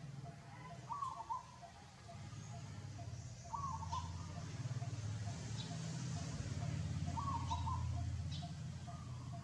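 An animal's short call, repeated about every three seconds, with fainter quick notes between, over a low steady rumble.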